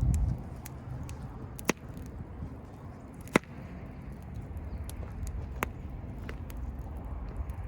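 Wood fire crackling, with scattered sharp pops from the burning firewood, the loudest about halfway through, over a low steady rumble.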